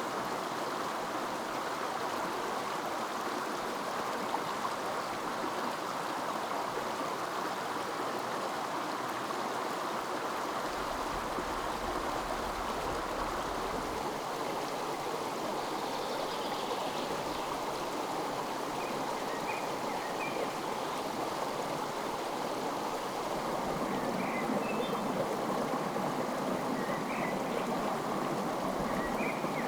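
Steady rushing of a flowing mountain stream, with a few faint, short high chirps in the second half.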